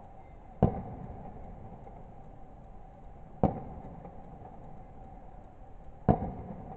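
Fireworks going off: three single sharp bangs, about two and a half seconds apart, each followed by a brief rumbling echo.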